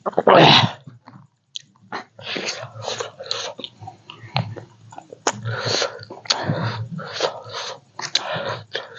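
Close-up eating sounds: biting and chewing with wet mouth noises in irregular short bursts, and one loud noisy burst right at the start.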